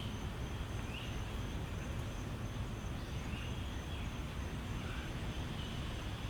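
Steady low outdoor background rumble, with a few faint, short bird chirps scattered through it.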